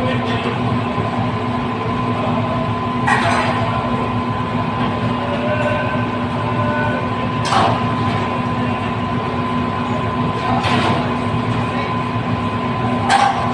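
Steady mechanical rumble with a constant hum, broken four times by a short sharp knock or clatter, about every three to four seconds.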